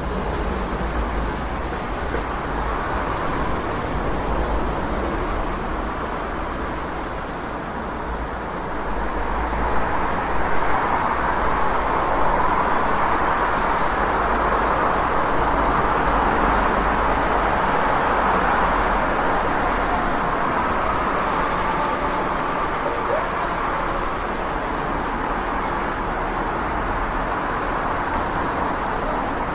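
City street traffic: a steady wash of passing cars and engine rumble, growing louder about a third of the way in as nearer traffic goes by, then easing off slightly.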